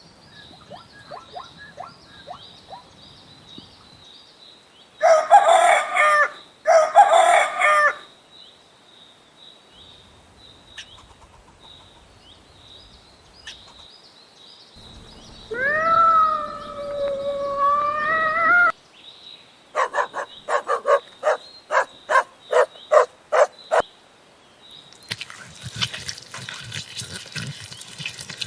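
Chickens: a rooster crows once, a long call of about three seconds midway, and hens cluck in quick runs of short notes before and after it, with two loud harsh squawks about five seconds in. A faint steady high chirping runs underneath, and a dense rattling chorus starts near the end.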